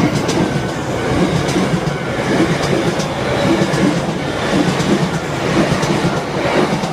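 Electric commuter train passing close by, a steady rumble with repeated clacks of its wheels running over the rail joints.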